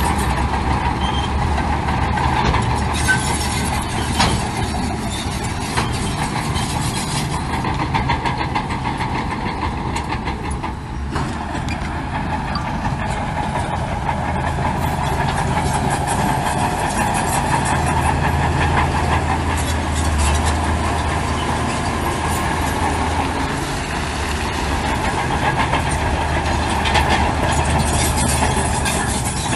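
Heavy diesel earthmoving machinery running steadily under load, with a continual clatter over the engine drone.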